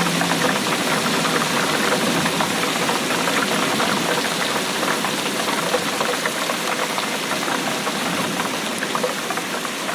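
Steady rainfall: a dense, even patter of many small drops.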